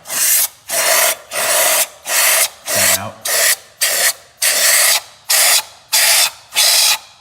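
Can of compressed air duster blowing dirt out of a spark plug well through its straw: about a dozen short hissing blasts in quick succession, roughly one every half second.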